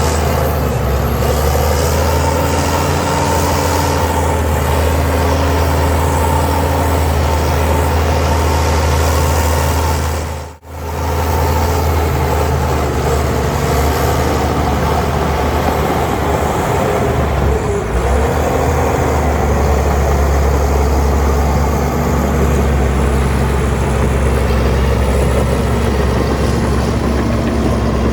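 Heavy diesel earthmoving machinery running steadily under load, a deep engine drone with a steady hum above it. About a third of the way in the sound drops out for a moment, then carries on.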